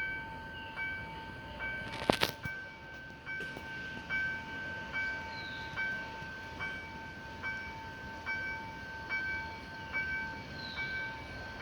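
Railway level-crossing warning bell ringing in an even rhythm, about one ring every 0.8 seconds over a steady ringing tone, as a train approaches. A sharp knock sounds about two seconds in.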